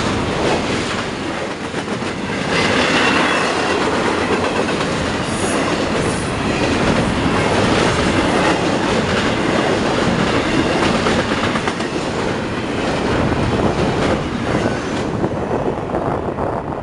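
Freight train cars rolling past, wheels clattering steadily over the rail joints.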